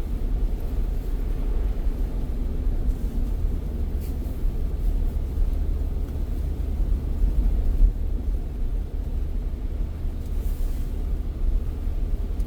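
Car driving along the road: a steady low rumble of road and engine noise.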